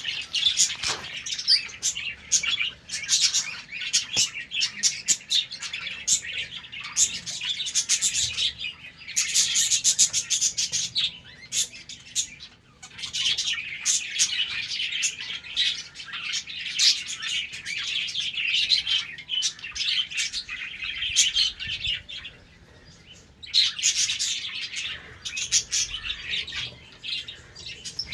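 A colony of budgerigars (budgies) chirping and chattering, many birds at once, with a short lull a few seconds before the end.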